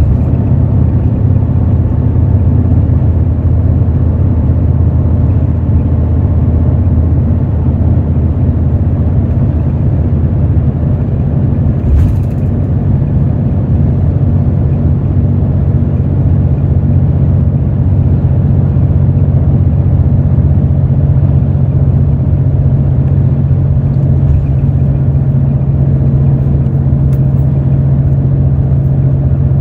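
Hino J08E-VD 7.7-litre inline-six turbo-diesel of a Hino RN8JSVU bus, heard from inside the cabin, running steadily under way as a low, even drone. A single brief knock comes about twelve seconds in.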